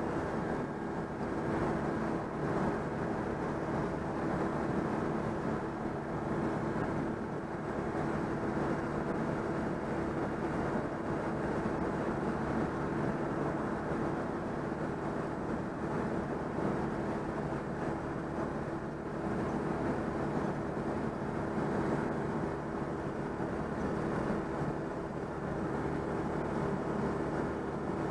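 Citroën 2CV's air-cooled flat-twin engine running steadily at motorway cruising speed, about 90 km/h, with road and wind noise.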